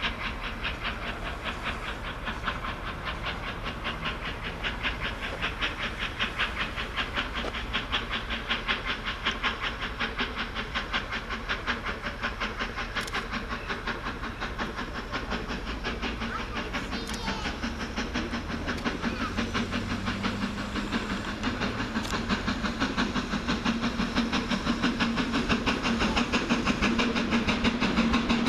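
GWR Castle Class four-cylinder steam locomotive 7029 Clun Castle chuffing in a fast, even rhythm, with steam hiss. It grows louder over the last third as it works through the station.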